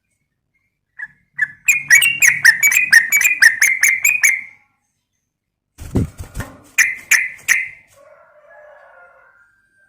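Yellow-vented bulbul (trucukan) calling: a quick chattering run of about five notes a second, then after a pause three louder notes, followed by faint warbling. A dull thump comes just before the three notes.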